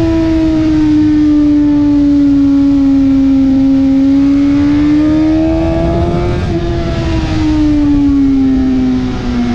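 Inline-four engine of a 2020 Suzuki GSX-R1000R running at high revs, its pitch sagging slowly, climbing until about two-thirds of the way through, then falling steadily, over heavy wind rush.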